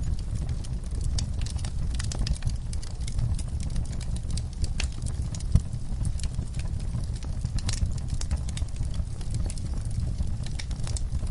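Wood fire crackling in a fireplace: irregular sharp pops and snaps over a steady low rumble of the flames, with one louder pop about five and a half seconds in.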